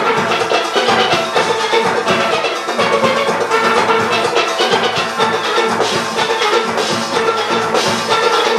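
A large steel orchestra playing: many steelpans striking fast, busy rhythmic runs over a steady drum-kit and percussion rhythm section.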